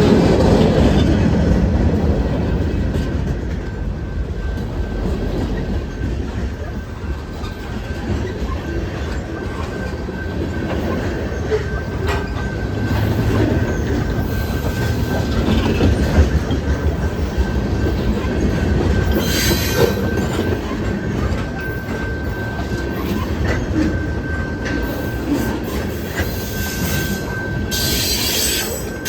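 CSX freight train rolling past, its wheels rumbling on the rails with a steady wheel squeal from about the middle on, and short sharper screeches near the end.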